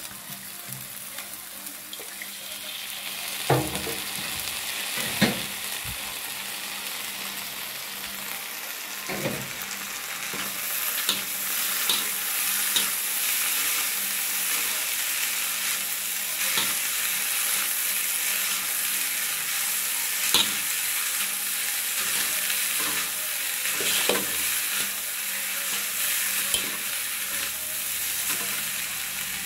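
Noodles stir-frying in a wok: a steady sizzle that grows louder about ten seconds in, with occasional sharp knocks as they are stirred and tossed.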